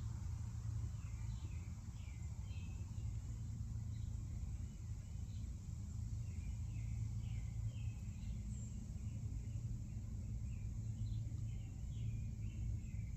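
Outdoor ambience: a steady low rumble with small birds chirping, short high notes coming in little clusters throughout.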